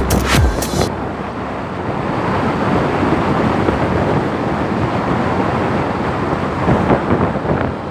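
Music with a sharp beat cuts off just under a second in, leaving a steady rushing noise like wind on the microphone.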